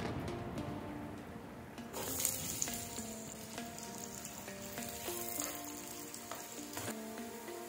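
Sliced onions sizzling in hot oil in a wok. The sizzle starts sharply about two seconds in, with scattered scrapes and clicks of a spatula stirring them.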